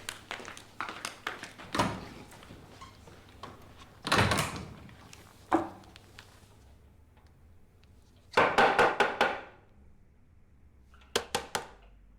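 Indoor knocks and thuds, door-like, scattered through the first half, then a quick run of about six knocks about eight seconds in and a few sharp knocks near the end.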